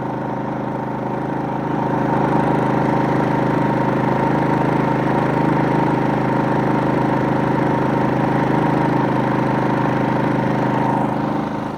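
Generac GP3300i inverter generator running steadily under load from an RV air conditioner and refrigerator. It gets a little louder about two seconds in and eases off again near the end.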